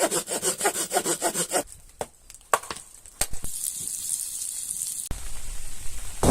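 Hand saw cutting through wood in quick, even strokes, about five a second, stopping after about a second and a half. A few sharp clicks follow, then a steady hiss.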